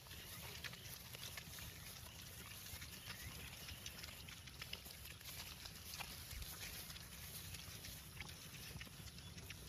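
Cattle close by: scattered soft clicks and scuffs over a steady low background noise, with no mooing.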